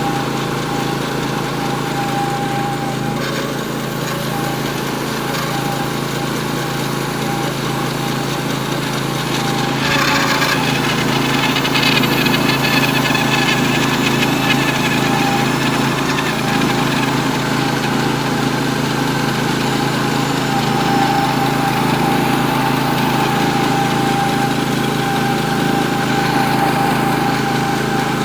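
Norwood HD36V2 portable band sawmill running steadily under load, its gas engine driving the band blade slowly through a 36-inch poplar log at the mill's maximum cutting width. It gets a little louder about ten seconds in.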